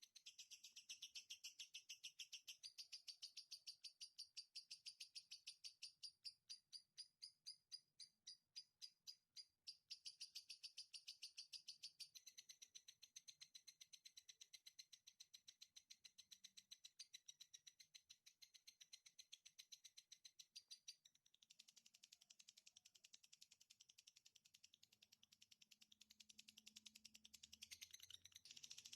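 A small songbird's rapid, continuous chattering trill: high-pitched notes repeating many times a second without a break, spacing out for a few seconds between about six and ten seconds in, then running fast again.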